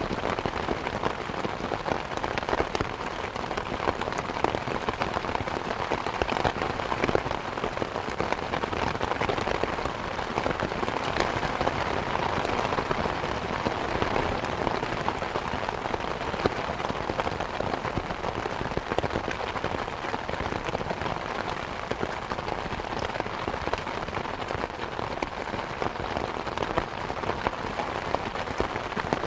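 Steady, dense rain falling and pattering on surfaces, a continuous hiss of many small drop impacts.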